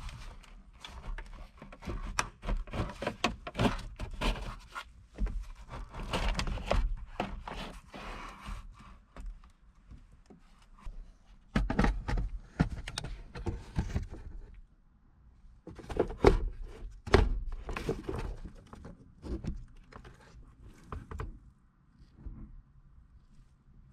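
Irregular knocks, clicks and scrapes of hand work with tools and parts, coming in clusters with short quiet pauses between.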